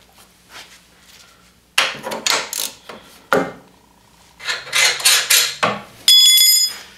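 Metal tools clinking and knocking on an ATV suspension as the lower A-arm pivot bolt is worked out with a socket and wrench, in several short bursts. Near the end comes a brief, loud, high-pitched ringing tone.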